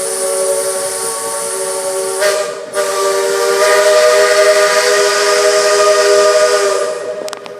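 Steam locomotive's chime whistle blowing a long chord of several tones over a hiss of steam. It breaks off briefly about two seconds in, then sounds a second, louder long blast that fades away near the end.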